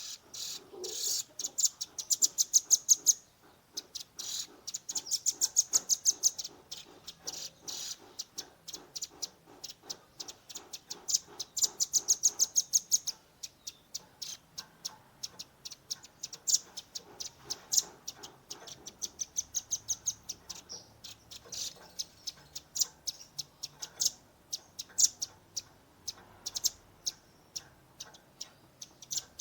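Young velvet-fronted nuthatch giving rapid-fire runs of sharp, high chip notes, about ten a second, in repeated bursts. The densest rattles come near the start and about a third of the way in; later runs are shorter and more spaced out.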